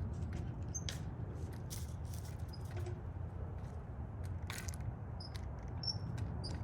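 Mourning doves pecking at bird seed: an irregular patter of small sharp clicks and cracks over a steady low rumble, with a few brief high chirps in the second half.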